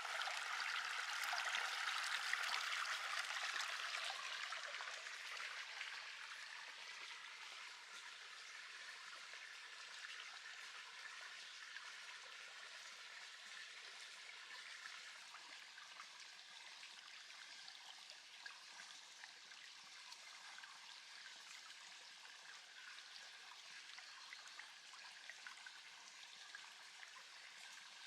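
A river flowing, heard as a steady rush of water that is louder for the first few seconds and then eases to a softer level.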